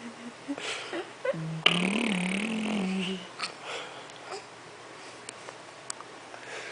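A young child making a raspy, throaty growling noise, held for about a second and a half with a wavering pitch, followed by quieter small sounds.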